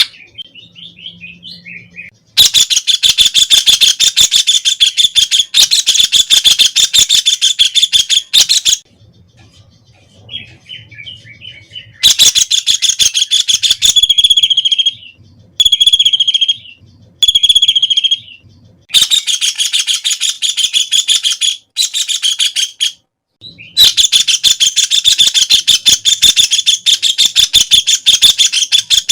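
White-throated kingfisher calling with its loud, fast rattling chatter. Long runs of rapid repeated notes last several seconds each, broken by short pauses, with a few shorter single calls near the middle.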